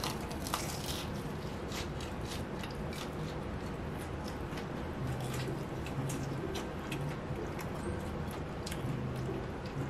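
Close-up crunching of a bite of thick-battered deep-fried eggplant being chewed, a quick run of small crisp crackles, broken by a few short, low closed-mouth hums.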